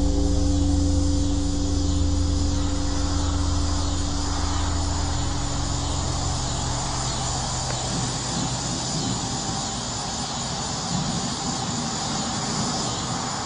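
Low droning hum made of several steady held tones, fading away over the first half, over a constant high-pitched chirring like insects or crickets; it cuts off abruptly at the end.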